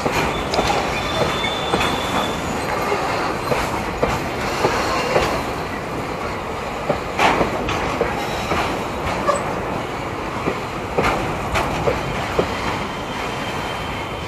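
Freight train of enclosed car-carrier wagons rolling past close by. Its wheels rumble steadily on the rails, with irregular clicks and knocks as the bogies pass over rail joints. A brief high squeal comes about a second in.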